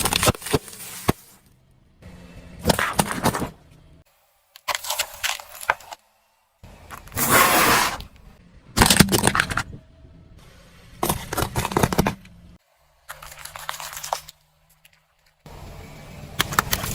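A car tyre rolling over and crushing objects: a string of short bursts of crunching and cracking, each cut off abruptly, with a faint low engine hum under some of them.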